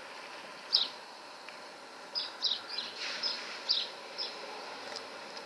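Small birds chirping: short, high calls, about eight of them, most bunched in the second half, over a steady outdoor hiss.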